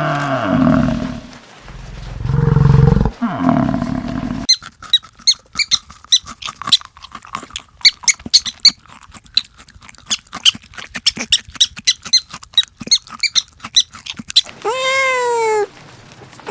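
A string of different animal calls: a loud, low roar-like call in the first few seconds, then about ten seconds of rapid, short, high-pitched squeaks, and near the end a single call that rises and falls in pitch, like a cat's meow.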